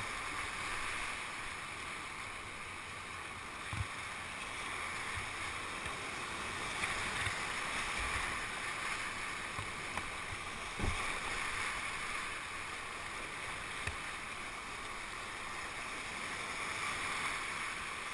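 Whitewater rushing steadily around a kayak on the Ocoee River, with a few soft low thumps scattered through it.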